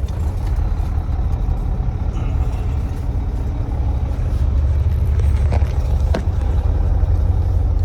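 Semi-truck diesel engine running with a steady low rumble that grows louder about four seconds in, with two light clicks near the end.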